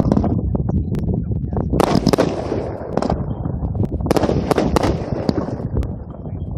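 Consumer aerial fireworks going off: repeated sharp bangs and crackling bursts, bunched about two seconds in and again around four to five seconds in.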